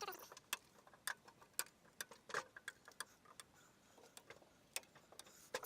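Scattered light clicks and ticks at an uneven pace, with a cat meowing once near the end, a short call falling in pitch.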